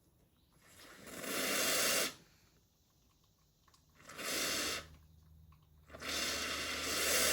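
Steam wand of a Brasilia Portofino commercial espresso machine blowing steam in three bursts: a first one that swells up, a short one near the middle, and a last one that cuts off sharply. The steam comes out with full force, with no trouble, a sign the boiler is holding pressure.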